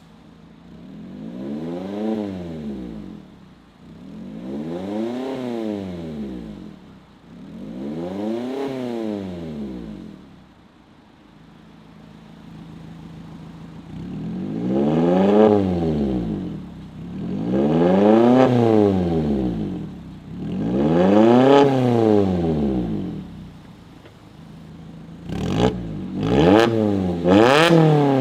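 Mazda MX-5 ND3's naturally aspirated four-cylinder through an ARMYTRIX Valvetronic cat-back exhaust, revved while stationary: three revs rising and falling back to idle, then three louder ones as the exhaust valves are switched, then several quick short blips near the end.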